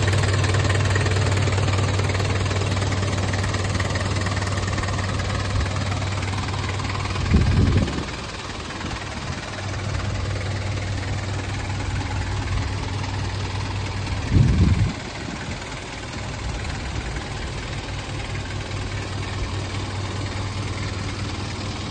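1994 Mitsubishi Canter's 4D36 four-cylinder diesel engine idling with a steady diesel knock, briefly revved twice, about seven and fourteen seconds in.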